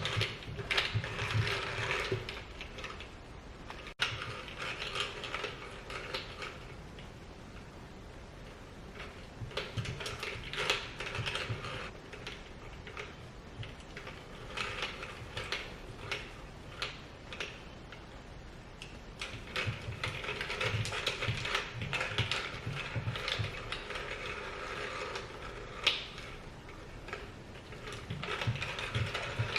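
Plastic interactive treat-feeder toy clicking and rattling as a cat plays with it. The sound comes in irregular bursts with quieter stretches between.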